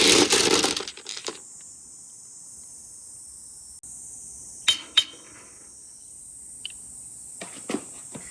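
Glass marbles running down a handmade marble-run track: a loud rolling rattle that dies out about a second in, two sharp, ringing glass clinks close together about five seconds in, then a string of light clicks near the end.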